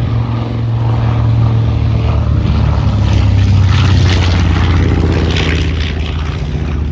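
B-25 Mitchell bomber's twin radial piston engines droning in a flyby, growing louder to a peak about halfway through, then dropping slightly in pitch and fading as it passes.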